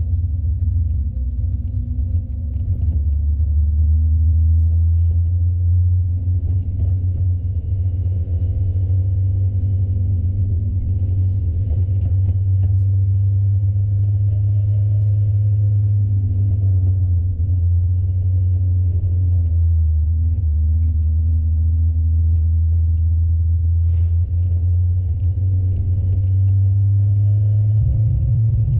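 Spec Miata race car's four-cylinder engine running steadily, heard on board as a loud low drone with only gentle changes in pitch and no sharp revving.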